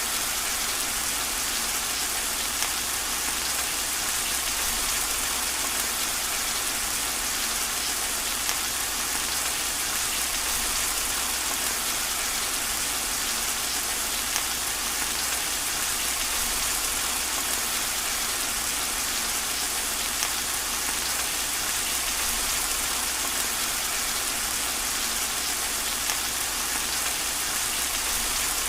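Steady rain falling: an even hiss, with a few slightly louder drops now and then.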